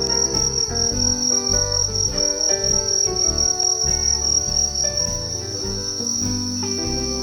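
Crickets making a steady high trill, over background music of pitched instrumental notes.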